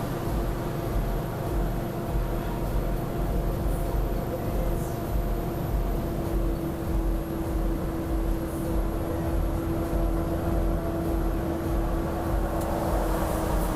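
Steady road and engine rumble of a moving vehicle on a downhill grade, heard from inside the cab, with a steady hum that drifts slightly lower near the end.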